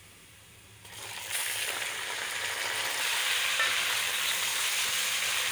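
Raw chicken pieces and potato chunks going into hot oil and browned onions: after a quiet first second, a loud sizzle starts about a second in and keeps going steadily.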